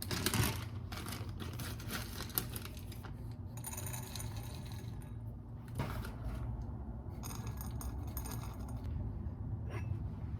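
Light clinking and jangling of small hard objects in several bursts over a steady low hum.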